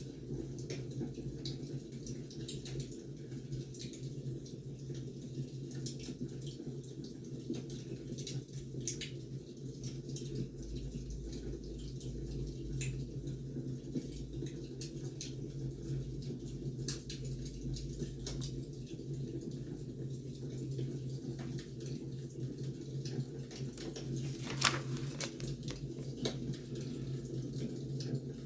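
Wood fire crackling: irregular small pops and snaps over a steady low rumble of the burning logs, with one louder crack about 25 seconds in.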